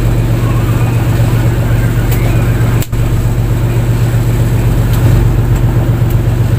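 Fishing boat's inboard engine running steadily with a deep, even hum, cut off for an instant about three seconds in.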